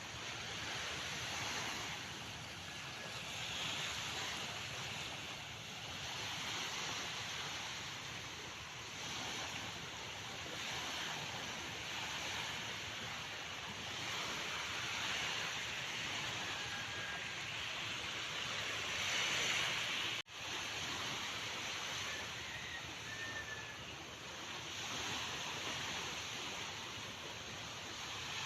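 Sea waves washing in, a steady surf hiss that swells and eases every few seconds. The sound cuts out for an instant about twenty seconds in.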